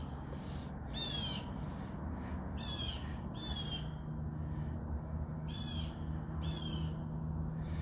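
A bird calling repeatedly outdoors: about five short calls, each falling in pitch, some coming in pairs a second or two apart, over a steady low background hum.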